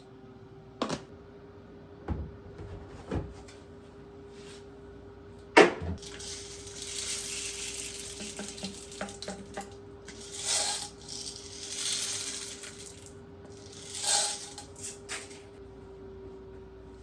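A few sharp clunks and clinks, then water running and splashing in spells for about ten seconds, over a steady low hum.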